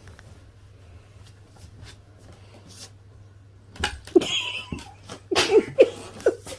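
Two cats squabbling: after a quiet stretch with a low hum, a run of short hisses and brief cries begins about four seconds in.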